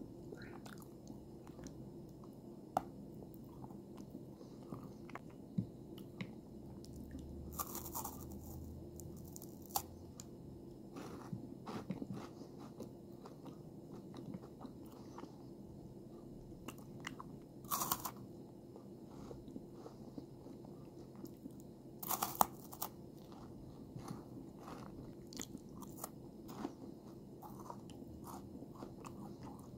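A person chewing and crunching dark chocolate and chocolate-coated wafer: a steady run of small crunchy clicks, with a few louder sharp bites about 8, 18 and 22 seconds in.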